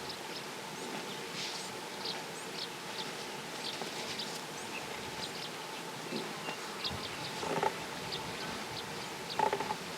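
Natural bush ambience: a steady insect drone with many short, high bird chirps scattered through it, and two louder calls about seven and a half and nine and a half seconds in.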